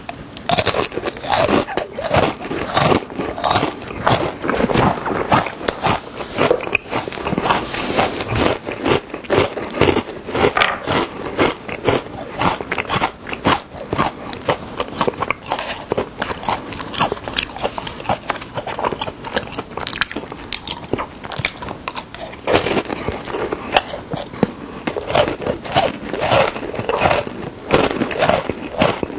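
Crisp biscuit sticks dipped in chocolate cream being bitten and chewed close to the microphone, a dense run of crunches and chewing.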